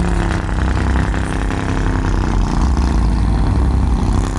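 Engine of a classic lowrider car running at low speed, with a deep, steady low sound and a pitch that shifts a little as it moves.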